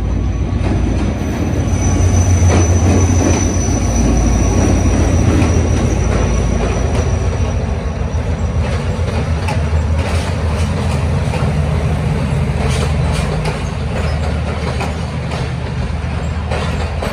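Passenger train arriving behind an HGMU-30 diesel-electric locomotive: a steady low rumble of engine and running gear with repeated clacks of wheels over rail joints. A thin high squeal fades out about six seconds in.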